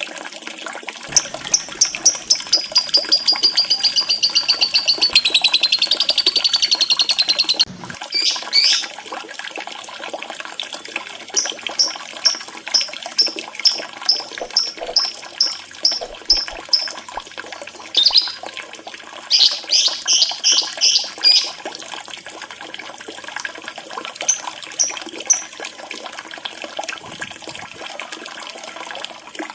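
Birds chirping and trilling over a steady trickle of running water, a lure track for a quiet lovebird: a fast run of rapid high notes cuts off abruptly about eight seconds in, followed by strings of separate high chirps and short bursts of chatter.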